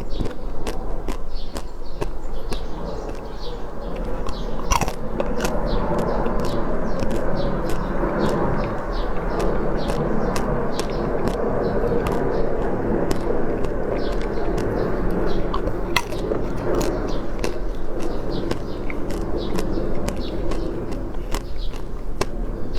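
Close-up eating sounds: chewing and wet mouth clicks and smacks, a few a second at an uneven pace, over a steady low hum.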